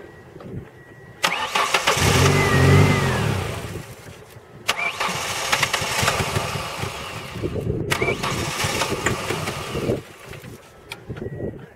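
A 1997–2001 Ford Escort's four-cylinder engine is started with its fuel pump fuse pulled. It catches about a second in, runs briefly on the fuel pressure left in the lines and fades, then is turned over again twice for about three seconds each time to bleed off the remaining fuel pressure.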